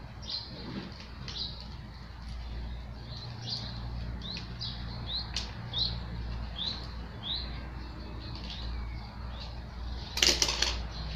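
A small bird chirping again and again, short quick high notes about once or twice a second. About ten seconds in comes a short, loud tearing burst.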